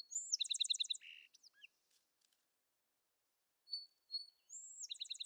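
A bird singing the same song twice, about four seconds apart. Each song has high thin whistled notes, a quick run of repeated chirping notes, then a buzzy note and a few short slurred notes.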